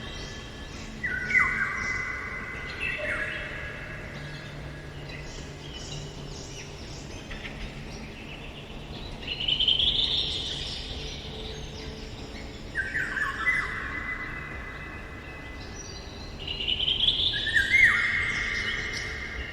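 Eurasian golden oriole singing short fluting phrases every few seconds, with other songbirds calling higher in the background.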